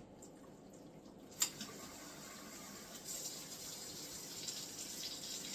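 A sharp click, then water running from a kitchen tap into a half-cup measuring cup, the flow getting stronger about three seconds in, as hot water is drawn for the crock pot.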